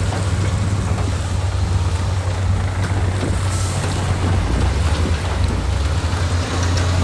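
Heavy diesel engine of earthmoving machinery running steadily, a constant low drone under a noisy mechanical wash.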